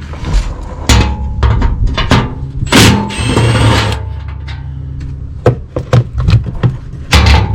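Background music over a series of sharp knocks and clanks from tools and a metal under-engine cover being unbolted. About three seconds in there is a burst of mechanical rattling about a second long.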